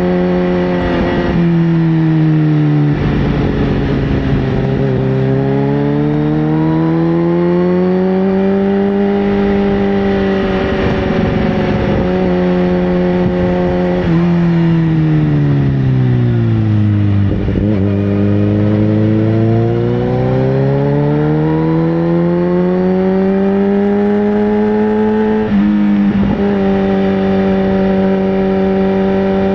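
Sportbike engine running under way, its pitch sinking and climbing slowly over several seconds at a time, with a few sudden pitch steps near the start, around the middle and near the end.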